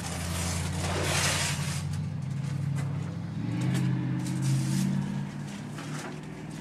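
A motor vehicle's engine running, its pitch rising about halfway through, with a brief rushing hiss about a second in.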